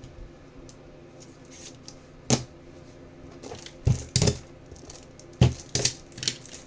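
Trading cards being handled on a tabletop: about six sharp taps and clacks in a few seconds, loudest about two seconds in and again around four and five and a half seconds.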